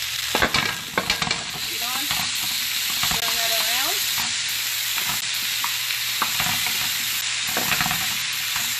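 Cauliflower florets, diced tomatoes, onions and garlic sizzling in a hot pan while a spatula stirs them. Sharp knocks and scrapes of the spatula against the pan come thickest in the first second and a half and again near the end.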